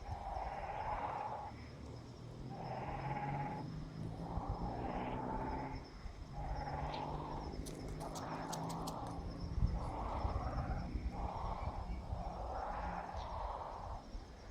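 A bird's harsh, raspy calls, each about a second long, repeating roughly every second and a half, typical of nestlings begging. A quick run of sharp clicks comes about 8 seconds in.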